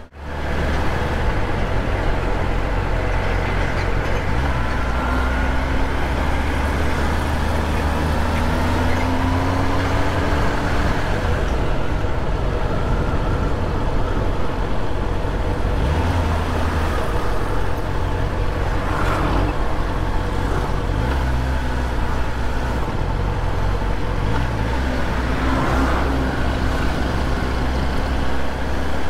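Riding a Kawasaki ZX-10R in city traffic: steady wind rumble on the helmet microphone over the bike's inline-four engine and road noise, with the engine note rising a few times in the first ten seconds.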